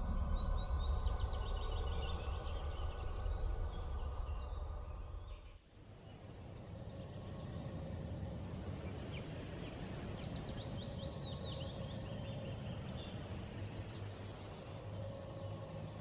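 Outdoor ambience with birdsong: runs of quick, high chirps from small birds over a steady low rumble. The sound drops out for a moment about six seconds in, then resumes.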